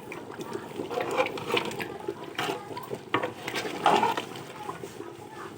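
Pot of thick chicken sambar bubbling at a boil, with irregular pops of bursting bubbles and one louder pop about four seconds in.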